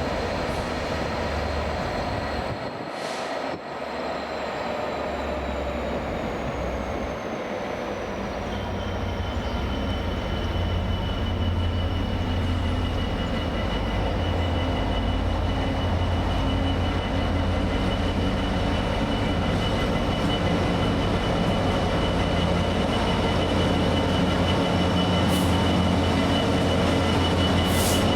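A train running slowly past with a steady low rumble and high-pitched whines. A new whining tone comes in about eight seconds in, and the sound grows gradually louder.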